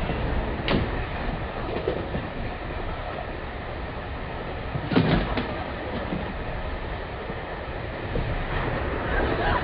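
Train running along, a steady rumble with wheel clatter, and sharp knocks about a second in and again about five seconds in.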